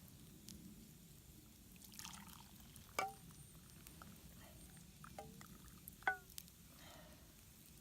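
Apple cider being poured into camp cookware: three light clinks ring briefly, about three, five and six seconds in, with soft liquid sounds between them.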